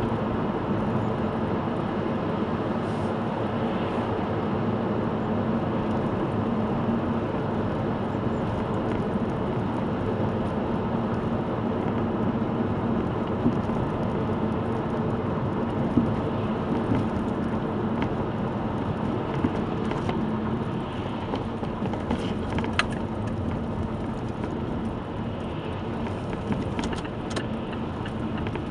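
Mazda 3 BK driving, a steady drone of road and running noise with a few sharp knocks from the front end now and then. The front knock comes from worn ball joints and the right front shock absorber.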